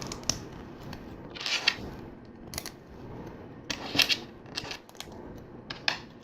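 Small plastic LEGO pieces clicking and rattling as they are picked up and pressed together, with a few brief rustles of hands moving among the parts.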